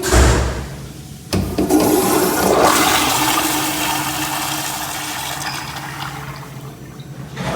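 Toilet flushing: a brief loud knock at the start, then about a second later a sudden rush of water that is loudest for a couple of seconds and slowly dies down.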